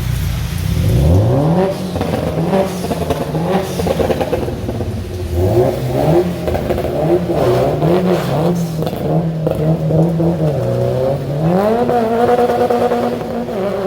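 A car engine revving repeatedly: its pitch climbs sharply, rises and falls in a series of blips, holds steady for a moment, then climbs again and holds high near the end.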